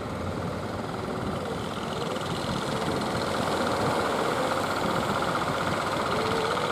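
Boat engine running steadily, growing louder from about two seconds in as the boat powers up or comes closer.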